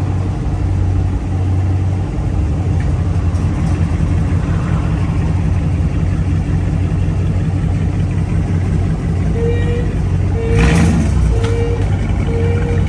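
Dodge Charger's 5.7 Hemi V8 running with a muffler and resonator delete, a steady deep exhaust rumble. Near the end a short electronic beep sounds four times at even spacing, and a brief louder rush of noise comes about ten and a half seconds in.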